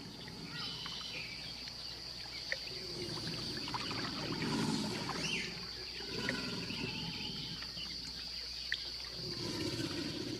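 Swamp ambience: a steady, high-pitched insect drone, with soft, low swells of noise a few seconds in and again near the end.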